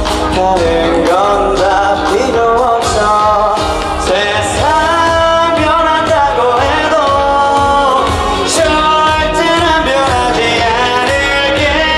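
Loud live pop music through a concert sound system: a melody line holding and sliding between notes over a steady bass beat.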